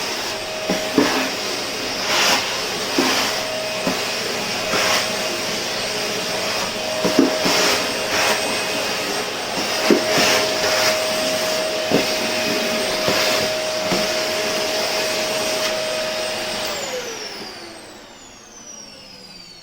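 Vacuum cleaner running steadily with a high whine, with a short knock every second or two. Near the end it is switched off and the motor winds down, its whine falling in pitch.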